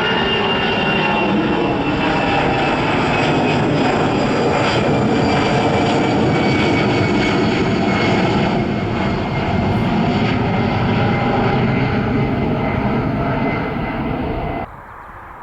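Jet airliner passing close by: loud engine noise with high whining tones that slowly fall in pitch. It cuts off abruptly near the end.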